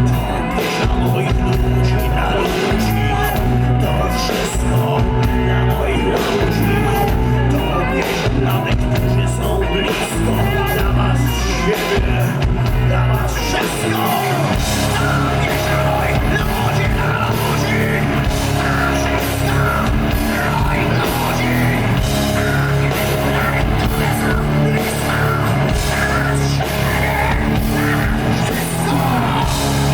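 Live rock band playing at full volume, with guitars, bass and drums. About halfway through, the bass line changes and the low end becomes fuller and steadier.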